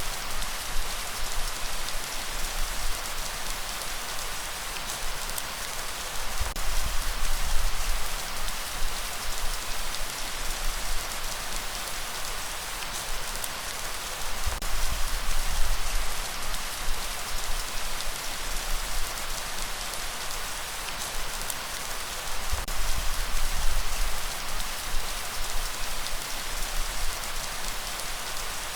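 Steady light rain pattering on surfaces, with many fine drop ticks, and a low rumble of breeze that swells and fades every few seconds.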